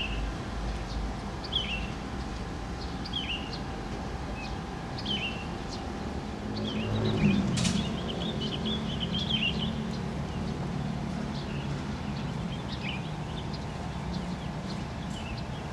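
Small birds chirping: a short high call repeated every second or two, then a burst of twittering about halfway through. A low hum rises under it at the same time, over steady outdoor background noise.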